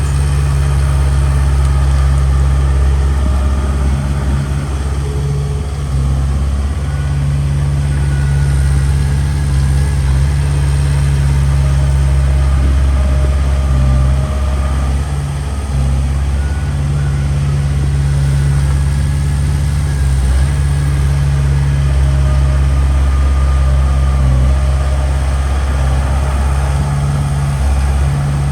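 Small crawler bulldozer's diesel engine running steadily with a deep, even drone, its level dipping slightly now and then.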